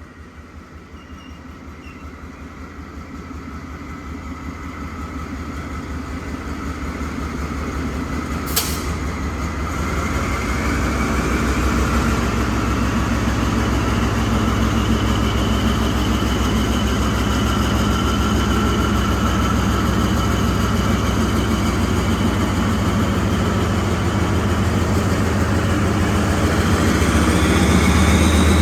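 KTM Kargo G10 diesel-electric freight locomotive approaching with a low, pulsing engine rumble. The rumble grows louder over the first ten seconds or so, then holds steady and loud. There is a single sharp click about eight seconds in.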